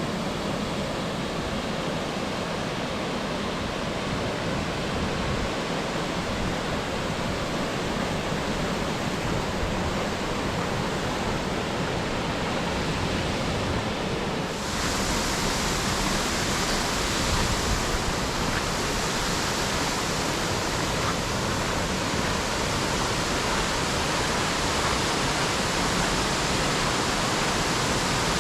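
Waterfall rushing steadily; about halfway through the rush turns suddenly louder and brighter.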